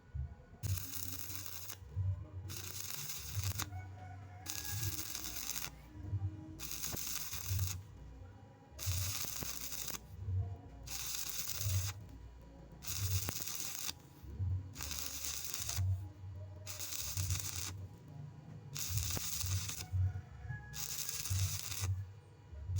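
Stick-welding arc crackling on iron plate in repeated short runs, about a dozen bursts of roughly a second each with brief breaks between them.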